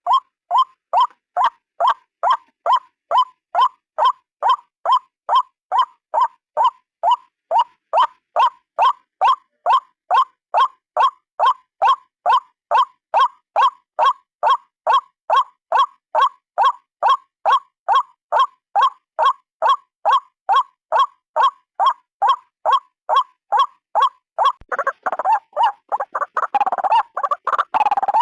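Recorded calls of a single white-breasted waterhen (ruak-ruak), played as a bird-trapping lure: short, identical notes repeated at about two a second. About 24 seconds in, they give way to a faster, jumbled run of harsher calls.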